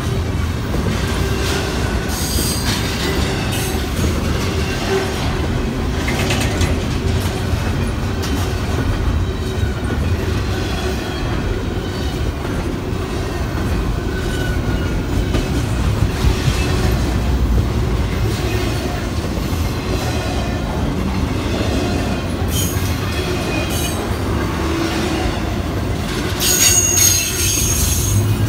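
Double-stack container train cars rolling past at close range: a steady rumble of wheels on rail with a constant whine, and wheel squeal that comes and goes, loudest and highest for a second or two near the end.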